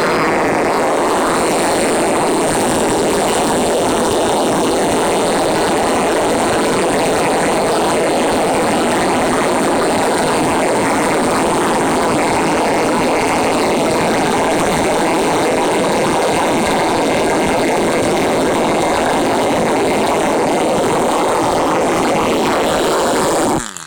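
Enya 15 III model glow engine running flat out on a test stand, its propeller making a loud, steady buzz. The sound cuts off abruptly near the end.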